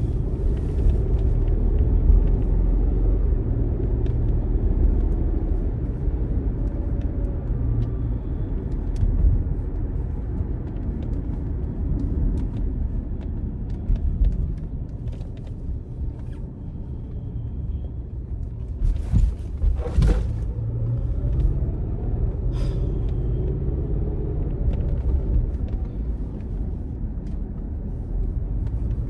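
Road and engine noise inside a moving car, a steady low rumble, with a couple of brief knocks a little past the middle.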